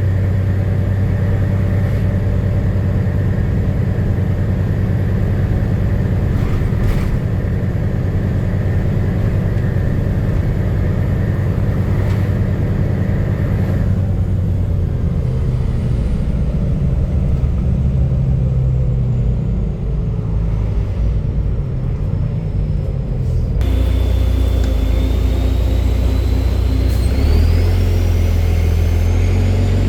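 Diesel engine of a Volvo B9TL double-decker bus, heard from on board and running loud through a burst exhaust. The rumble eases off through the middle. It then picks up sharply, with a high whine rising through the last few seconds as the bus pulls away.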